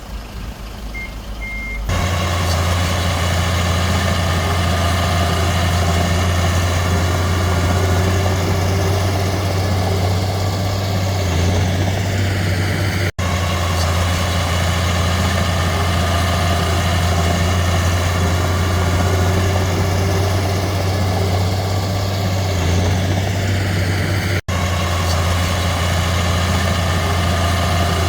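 Heavy diesel earthmoving machinery running steadily at work, the engine hum jumping up loud about two seconds in and holding steady, with a short high beep before that and two very brief dropouts about 13 and 24 seconds in.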